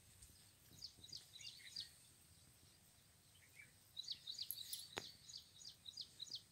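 Faint chirping of small birds: quick, short, high calls in a spell about a second in and a busier run from about four seconds on. A single sharp click comes toward the end.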